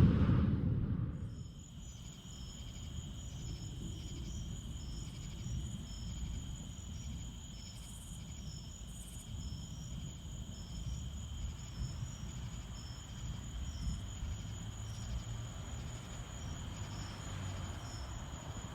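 Crickets calling at night: a steady high trill, with a second caller chirping in a regular pulse about three times every two seconds. A low rumble runs underneath.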